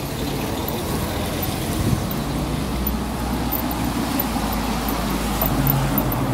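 Street traffic on a rain-wet town road: a steady rumble of passing vehicles.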